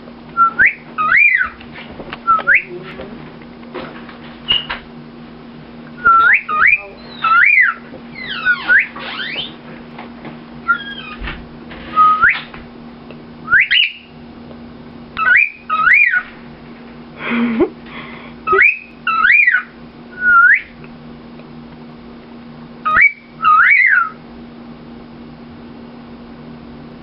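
A cockatiel and a person taking turns whistling the same short taught tune: quick rising and falling whistled notes in short phrases with pauses between. A steady low hum runs underneath.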